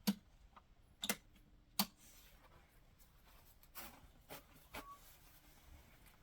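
Scattered sharp clicks and knocks, three loud ones in the first two seconds and a few softer ones about four to five seconds in.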